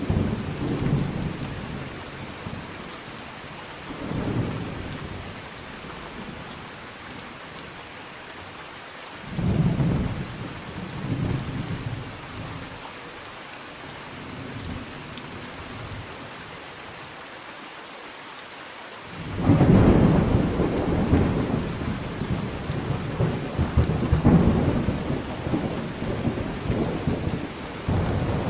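Thunderstorm: steady rain with rolling thunder, short rumbles twice in the first half, then a long, loud rumble from about two-thirds of the way in to the end.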